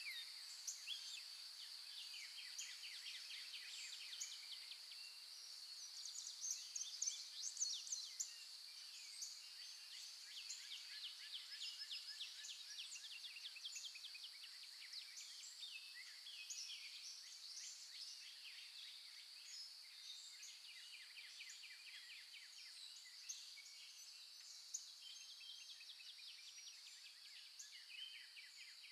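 Faint background of small birds chirping and twittering in quick trills, over a steady high-pitched drone.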